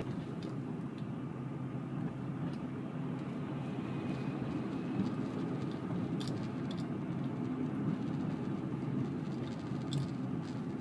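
Steady in-cabin road and engine noise of a 2005 Honda Pilot driving along: an even low rumble, with a few faint light ticks scattered through it.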